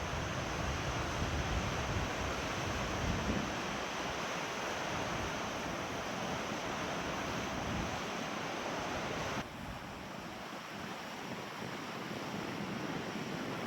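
Waves washing on the Lake Huron shore, with wind buffeting the microphone. The sound drops off abruptly about nine and a half seconds in.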